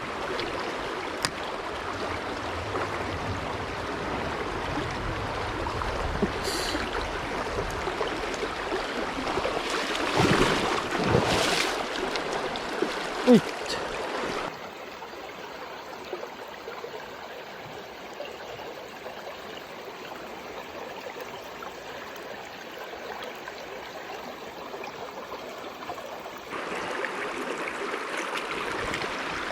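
Mountain stream rushing over rocks, with a few louder splashes about ten seconds in and a sharp knock a little after. About halfway through the rush turns quieter and duller, and it returns fuller near the end.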